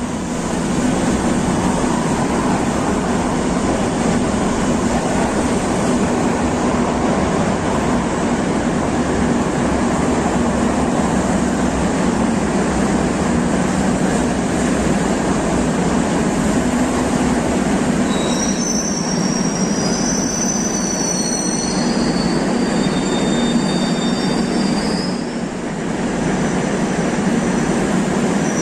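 Train running on rails with a loud, steady rumble. About two-thirds of the way in, high wheel squeal sets in and wavers in pitch, as on a curve.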